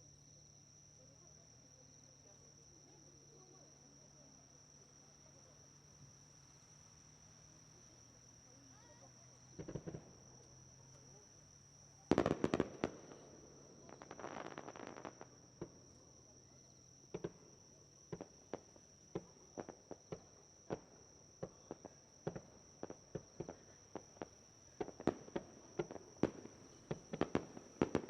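Aerial fireworks going off: a first burst about ten seconds in and a louder bang with crackling a couple of seconds later. A run of sharp single bangs follows, one or two a second, getting denser near the end. A steady high insect trill runs underneath.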